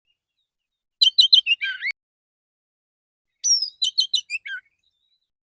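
Male oriental magpie-robin singing two short, relaxed phrases about two seconds apart. Each phrase is a quick run of clear whistled notes that ends on a lower, falling note.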